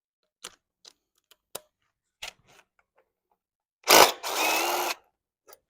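Metal hand tools clinking and clicking a few times as wrenches are picked up. About four seconds in, a cordless power tool runs in a short burst of about a second with a faint motor whine.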